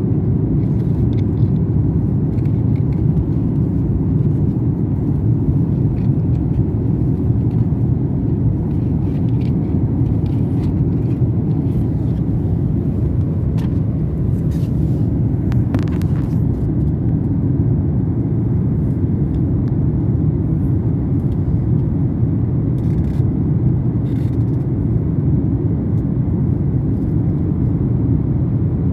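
Jet airliner cabin noise: a steady, even low rumble from the engines and airflow, with a few faint light clicks and rattles.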